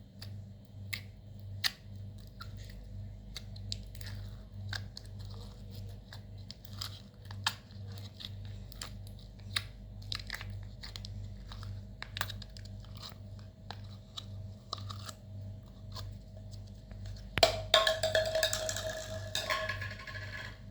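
Slime being squeezed and worked by hand, giving scattered sharp wet clicks and pops. Near the end comes a louder, denser stretch of crackling lasting a couple of seconds. A steady low hum runs underneath.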